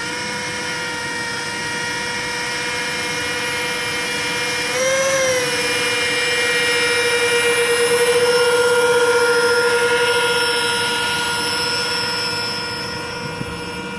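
Electric ducted fans of a radio-controlled Airbus A330-600 model airliner whining steadily at low throttle. There is a short rise in pitch about five seconds in, and the sound swells through the middle before easing off.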